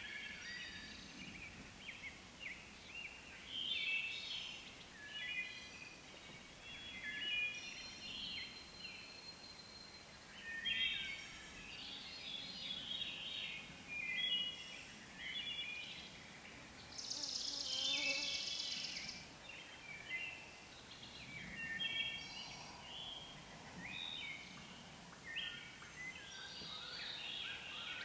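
Chorus of several songbirds singing over one another: wood thrush, whip-poor-will and sparrows, in short, overlapping phrases. A high buzzy trill of about two seconds sounds near the middle.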